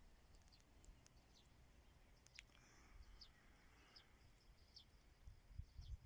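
Near silence, with faint scattered bird chirps, short and high-pitched, about one a second, over a low rumble of outdoor background.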